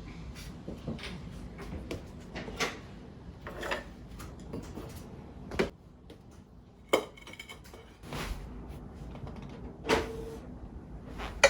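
Household objects being handled: a series of separate knocks, clinks and clatters, with one brief ringing clink about seven seconds in.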